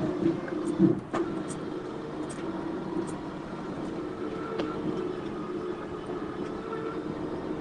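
An engine running steadily, with a few sharp clicks and one louder knock about a second in.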